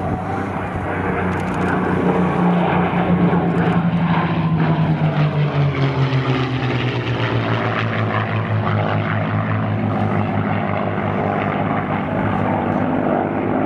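P-51 Mustang's V-12 Merlin engine in a low pass, the engine note dropping in pitch as the plane goes by, loudest a few seconds in, then holding a steady lower drone.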